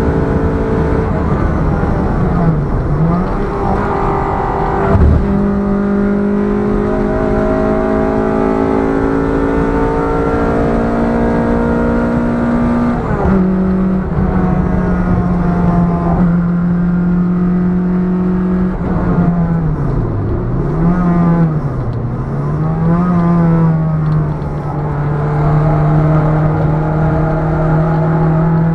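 Ford Fiesta Mk5 Zetec S engine running hard on track, its note climbing slowly in pitch and dropping at gear changes around 5, 10 and 13 seconds in, with brief dips and recoveries in revs near the start and again about two-thirds of the way through. A sharp knock comes about five seconds in.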